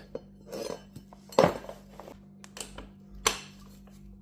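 Metal parts and tools clinking and knocking as engine components are handled, a few separate sharp clinks with the loudest about a second and a half in.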